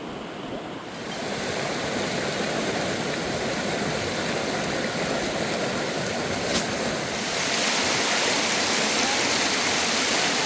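Flowing water rushing steadily, getting louder about a second in and louder and brighter again about seven seconds in.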